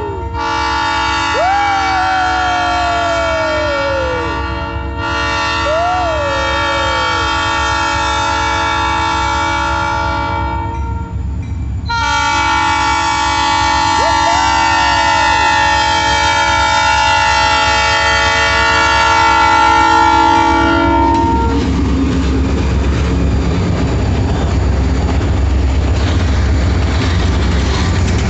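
Diesel locomotive air horn blowing three long blasts for a crossing. It stops about three quarters of the way through, leaving the low rumble and rail clatter of the train passing. A separate short tone that rises and then falls sounds over the horn three times.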